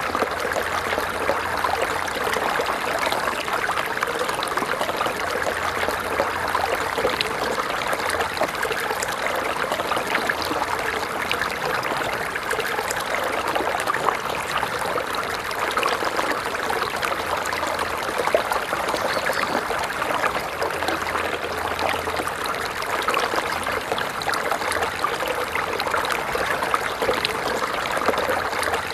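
Small stream or brook running steadily over stones, a continuous babbling trickle with fine splashes.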